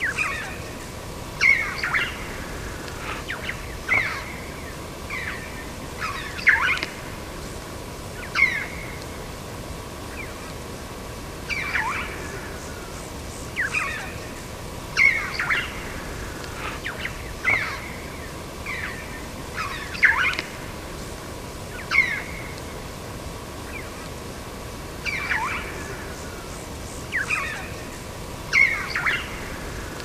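Birds calling: short calls that sweep downward in pitch, repeated every second or two throughout.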